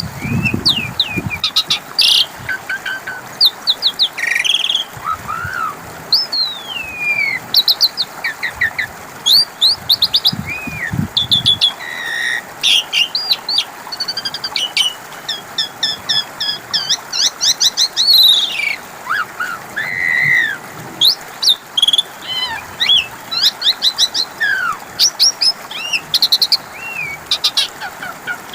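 Asian pied starling (jalak suren) singing a continuous, varied song of whistles, rapid chattering series of short notes and gliding calls, played as a lure recording to get a silent starling to sing.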